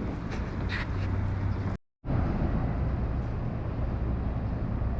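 Steady low outdoor rumble, broken by a brief cut to silence just before two seconds in.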